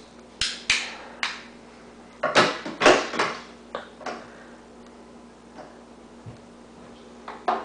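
A few sharp clicks and knocks, like hard objects being handled: some in the first second, a tight cluster about two to three seconds in, and one more near the end.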